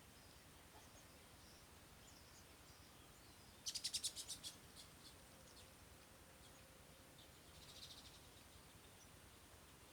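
A bird calling a quick run of about eight sharp, high notes, some ten a second and fading, about four seconds in. A fainter, high trill follows near eight seconds.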